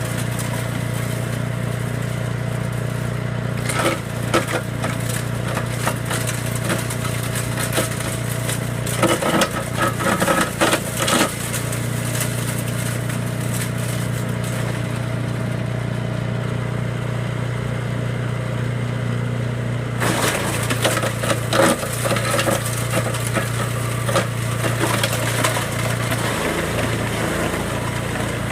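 Masport chipper shredder's 6 HP Briggs & Stratton engine running steadily, with bursts of cracking and crunching as material is fed in and shredded: a short burst about four seconds in, more between about nine and eleven seconds, and repeated crackling through the last eight seconds or so.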